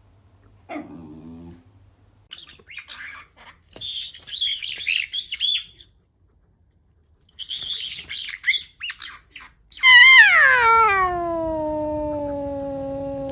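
Two spells of high, quivering chirps and squawks, then about ten seconds in a cat lets out a loud, long yowl that drops sharply in pitch and is held.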